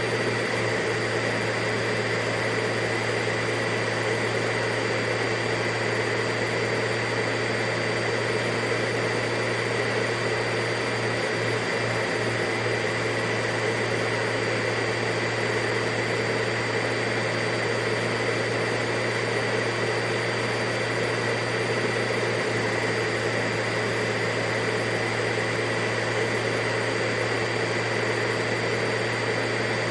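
Vacuum cleaner motor running steadily, a constant whooshing hum with a steady high whine, unchanging in pitch and level.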